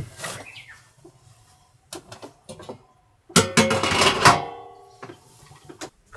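Scattered clicks and knocks of objects being handled, with a loud clatter and brief metallic ringing about three seconds in.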